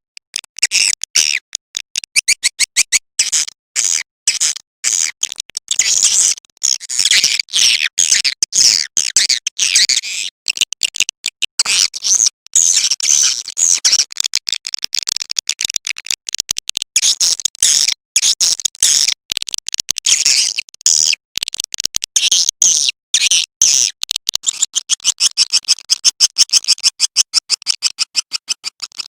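Swiftlet call-sound lure recording: edible-nest swiftlets' rapid high chattering twitters, played as continuous fast trains of chirps broken by brief gaps.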